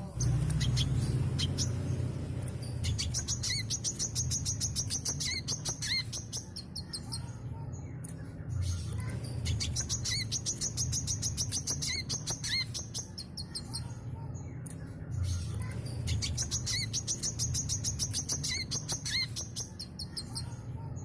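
Brown-throated sunbird (kolibri kelapa) singing continuously: fast high trilled phrases a few seconds long, repeating about every six seconds, with sharp single chirps between them, over a low steady hum.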